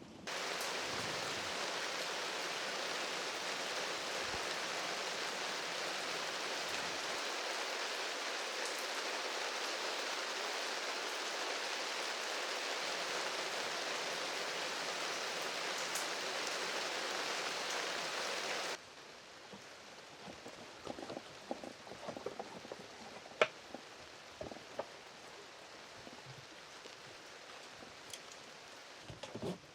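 Heavy rain falling steadily, an even hiss of drops that begins and cuts off abruptly about two-thirds of the way through. After it a much quieter stretch follows, with scattered faint ticks and taps.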